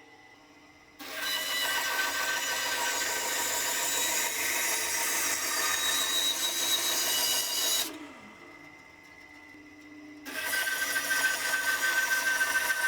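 Carbatec 10-inch bandsaw cutting through wood: a loud rasping hiss with a steady whine sets in about a second in, falls away to a much quieter level near eight seconds, and starts again about two seconds later.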